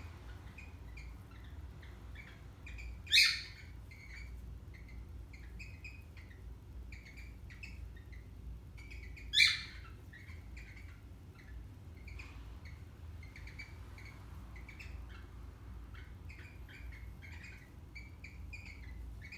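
Parrots chattering in many short, soft chirps, broken by two loud, sharp squawks about six seconds apart.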